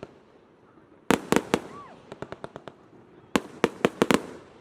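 Fireworks going off: a rapid cluster of sharp, loud bangs about a second in, lighter crackling, then another loud cluster of bangs near the end.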